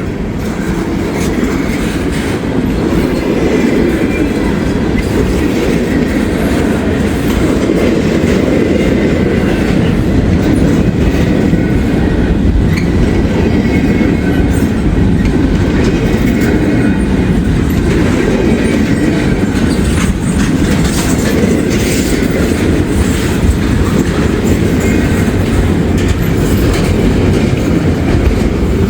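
Freight train of intermodal well cars rolling steadily past: a continuous rumble of cars and wheels with a clickety-clack over the rail joints.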